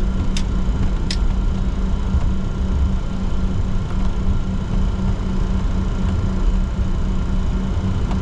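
Cockpit noise of a Bombardier Challenger 604 taxiing: a steady low rumble and hum with a faint steady whine above it. Two short clicks in the first second or so.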